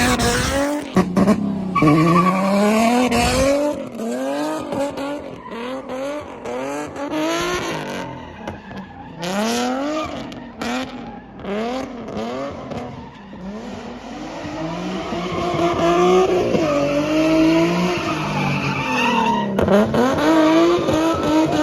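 Car engine revving up and down again and again, with tires squealing and skidding as a car slides. It gets louder in the second half.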